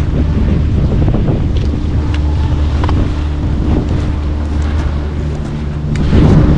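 Strong wind buffeting the microphone in a mountain blizzard, a continuous low roar with scattered small knocks and a faint steady hum underneath.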